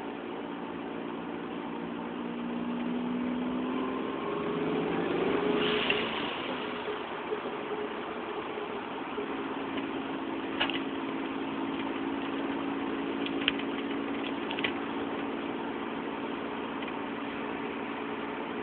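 The turbocharged VG30ET V6 of a 1985 Nissan 300ZX Turbo, heard from inside the closed cabin, rises in pitch as it pulls on boost. About six seconds in, a first-generation HKS SSQV blow-off valve vents with a short hiss as the throttle closes, and the engine settles into a steady cruise. A few sharp clicks come later on.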